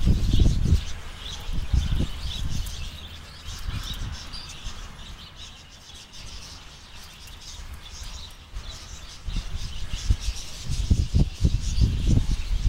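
Small birds chirping and twittering in the background, many short high chirps. Low rumbling bumps on the microphone in the first second and again over the last couple of seconds are the loudest sound.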